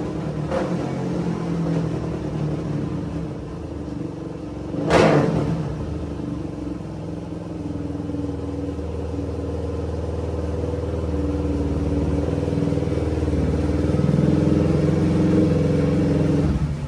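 Suzuki DR-Z400 single-cylinder four-stroke engine running on a chassis dyno, with one sharp bang about five seconds in. The engine then runs under load, growing steadily louder for about ten seconds, and drops away abruptly near the end as the throttle closes.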